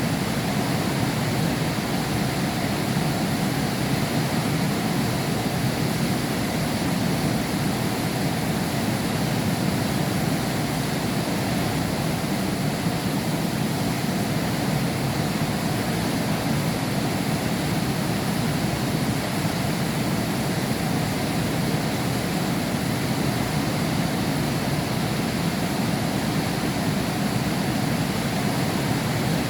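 Heavy rain falling steadily, a dense even hiss with a low rumble and no distinct drops or thunder.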